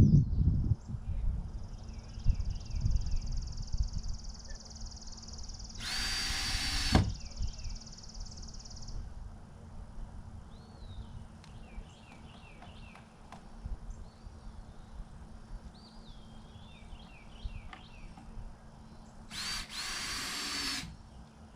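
Power drill run in two short bursts of about a second each, one about six seconds in and one near the end.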